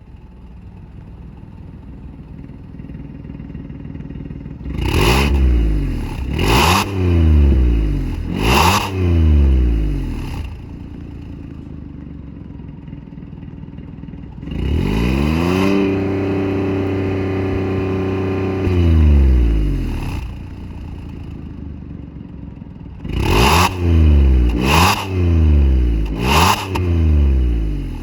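Suzuki Swift Hybrid's 1.2-litre three-cylinder engine revved through an ARMS GT-304ZER stainless competition rear muffler. It idles, is blipped three times, and later is held at higher revs for a few seconds before dropping back. Near the end it is blipped three more times.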